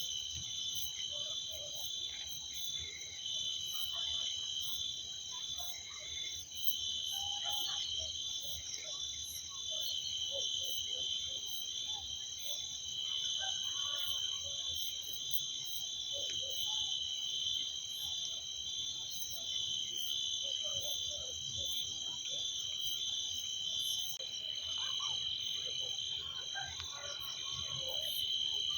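Night chorus of insects, probably crickets, trilling steadily at a high pitch, one of them in an even pulsing rhythm, with scattered short frog calls lower down.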